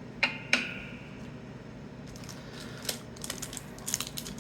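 Trading cards being handled and flipped through. There are two sharp snaps with a short ring close together near the start, then soft clicks and taps that build up near the end.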